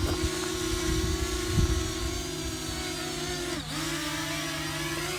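Parrot Anafi quadcopter's propellers buzzing steadily as it hovers close by. The motor pitch dips sharply about three and a half seconds in, then comes back up.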